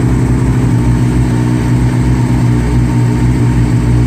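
Yamaha Apex snowmobile's four-cylinder four-stroke engine running steadily at idle.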